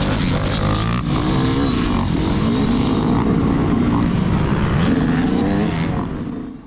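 Motocross motorcycle engines revving, the pitch rising and falling again and again as the throttle opens and closes; the sound fades out near the end.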